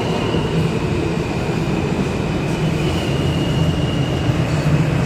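Steady low rumble with a faint high whine above it.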